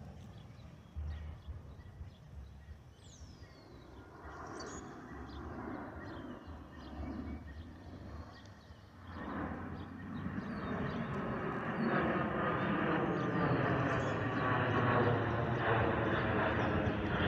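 Jet airliner's engines growing steadily louder as it approaches, starting about nine seconds in. Birds chirp faintly before it.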